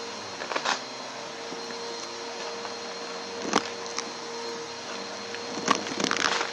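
Vacuum cleaner running with a steady rushing noise and a steady motor whine. Sharp crackling clicks come about half a second in, once around three and a half seconds, and in a cluster near the end.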